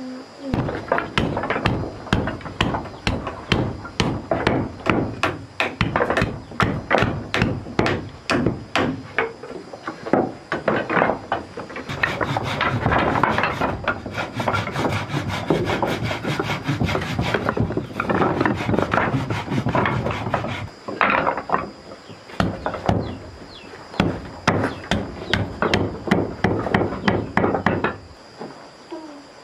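Rapid, rhythmic strokes of a tool on wood, about three or four a second, with a denser, continuous scraping stretch around the middle.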